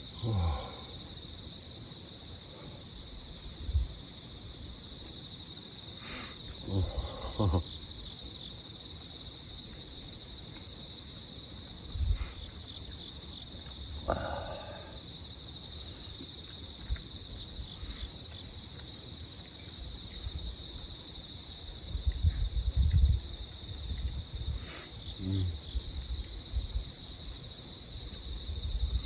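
A steady night chorus of crickets and other insects, one continuous high-pitched chirring that never breaks, with a few soft low knocks of handling near the end.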